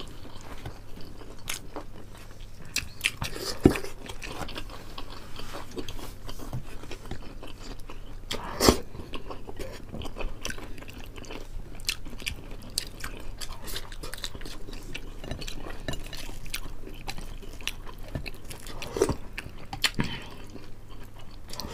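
Close-miked eating: chewing and biting with occasional crunches of fried chicken and boiled pork. Many small wet clicks, plus a few louder knocks.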